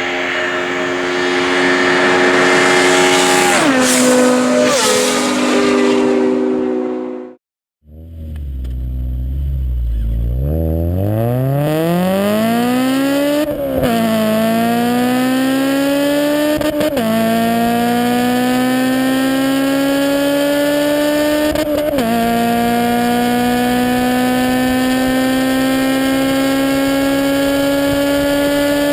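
Honda Civic Si's naturally aspirated four-cylinder engine accelerating hard, its pitch climbing steadily. It drops abruptly three times, about 14, 17 and 22 seconds in, at each upshift through the gears. The opening seconds hold a sustained sound that steps down in pitch and breaks off in a brief silence.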